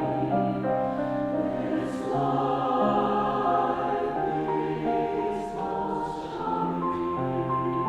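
Mixed choir singing sustained, slowly changing chords in a choral piece, with a few hissing consonants about two, five and a half and six seconds in.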